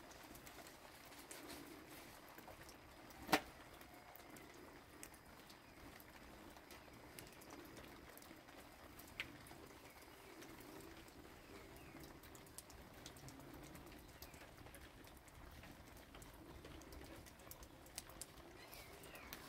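Quiet background with faint bird calls and soft cooing, broken by one sharp click about three seconds in and a smaller click near nine seconds.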